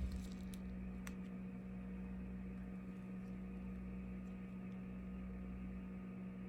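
Steady low electrical hum, with a few faint clicks in the first second or so.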